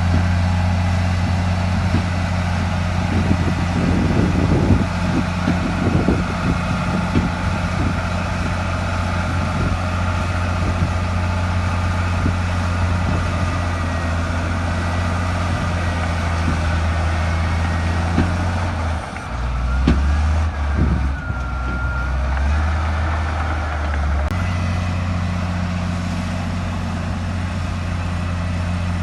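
Heavy diesel engine of earthmoving machinery running steadily, with scattered clanks and knocks in the first third. Past the middle the engine note drops lower for about five seconds, then comes back up.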